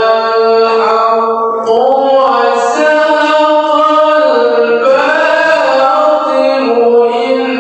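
A man reciting the Quran in the melodic tilawah style, holding long ornamented notes that slide up and down between pitches.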